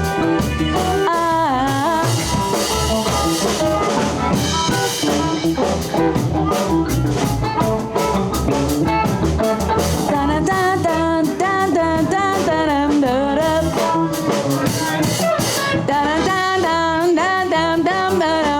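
Live blues band playing the closing section of a song: drum kit, bass and electric guitar, with a lead line bending and wavering in pitch over them.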